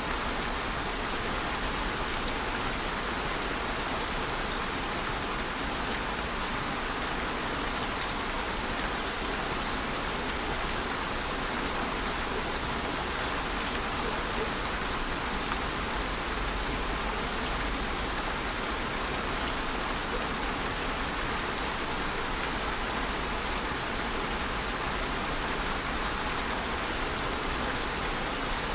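Steady rainfall: an even hiss of rain with the patter of drops on a surface and no rises or pauses.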